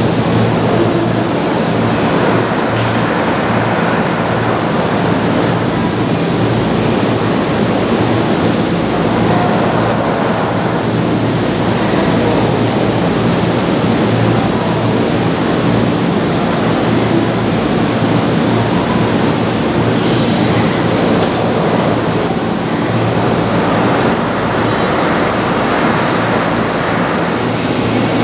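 Steady rumble of a train running on the rails, with a brief high whine about twenty seconds in.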